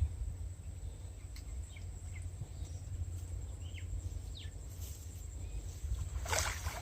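Rural outdoor ambience: a steady low rumble and a steady high insect-like buzz, with several short bird chirps and one brief noisy rustle or splash about six seconds in.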